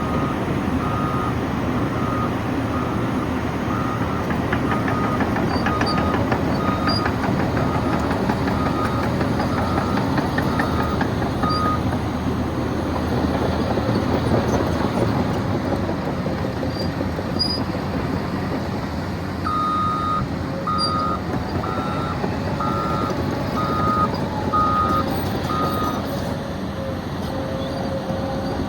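Caterpillar 963 track loader's diesel engine running while its backup alarm beeps in a steady repeating pattern. There are two stretches of reversing: the first ends about 12 seconds in, and the second runs from about 20 to 26 seconds.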